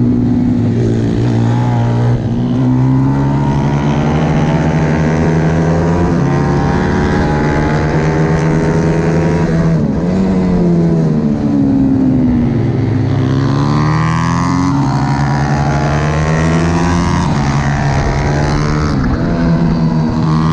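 Single-cylinder four-stroke pit bike engine ridden hard. Its pitch climbs steadily and then drops sharply several times, as it revs up through the gears and shuts off for corners.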